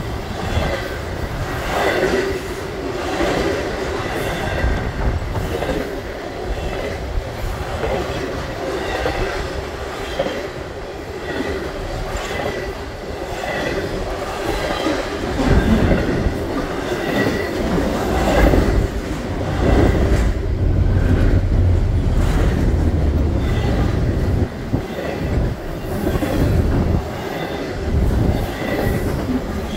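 Double-stacked intermodal container cars of a CSX freight train rolling past below: a continuous rush of steel wheels on rail, with repeated clacks as the wheels cross the rail joints.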